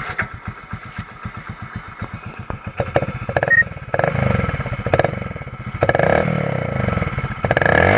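Hero Splendor single-cylinder motorcycle with a modified exhaust silencer meant to sound like a KTM Duke. It idles with a distinct, even firing beat, then is revved in about five short throttle blips from about three seconds in.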